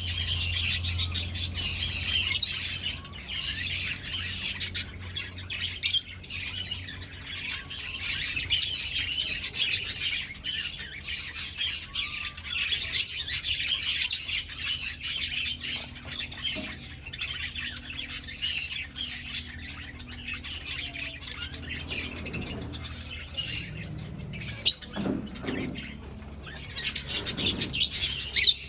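A colony of aviary finches chirping and calling constantly, many short overlapping calls at once, a little thinner for a few seconds past the middle.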